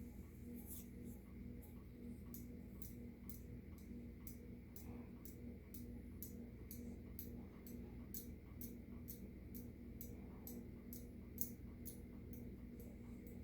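A 52-inch TAT Deluxe ceiling fan running, with a low, steady motor hum and a light tick about three times a second. One sharper click comes near the end.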